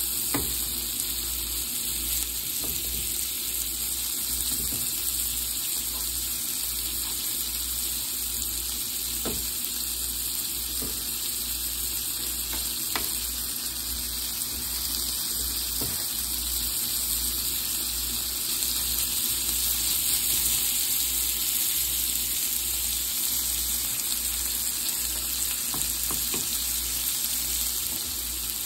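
Diced chicken, onions and green peppers sizzling steadily as they sauté in a hot pan, with a few light taps and scrapes from a wooden spatula stirring them.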